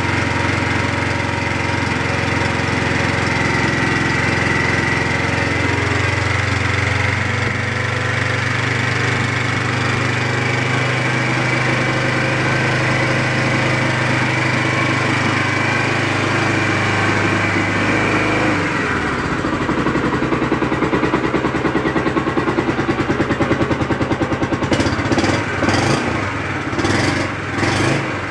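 Suzuki GZ250's single-cylinder engine idling steadily after a cold start. About two-thirds of the way through, the sound changes and the individual firing pulses become distinct and even.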